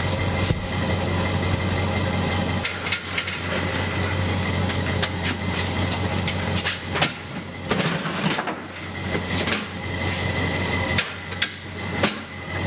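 Metal clanks and knocks as a steel engine hoist is lifted and shoved into a truck bed, with repeated sharp knocks over a steady low engine hum.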